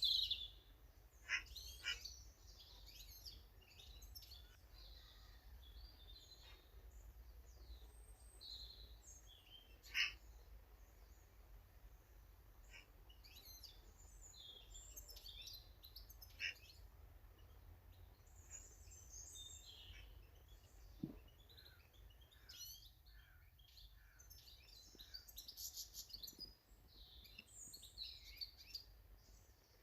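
Small garden birds chirping and calling, many short high notes overlapping throughout, with a few sharp clicks among them.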